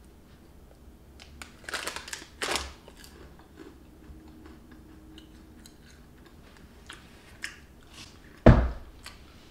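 Cheese puffs being crunched and chewed in the mouth, with the crunching loudest about two seconds in and small crackles after. A single loud low thump near the end.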